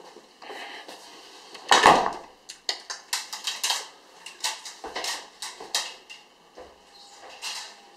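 Irregular clattering knocks and clicks, the loudest a heavier knock about two seconds in.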